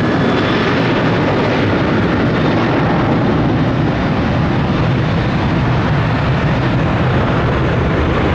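Jet airliner engines running at high thrust: a loud, steady rumble and hiss with no letup.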